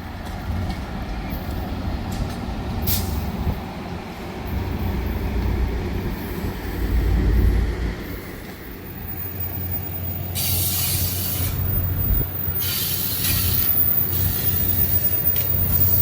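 A train running on the rails with a steady low rumble. Twice, about two-thirds of the way in, come short spells of high-pitched hiss or squeal.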